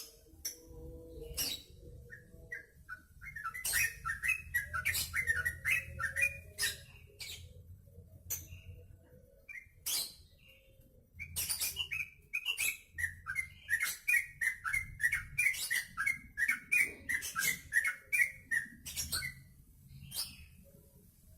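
Trucuk (yellow-vented bulbul) singing in two long runs of quick notes, the first starting about three seconds in and the second from about eleven to nineteen seconds, with many sharp clicks scattered between them.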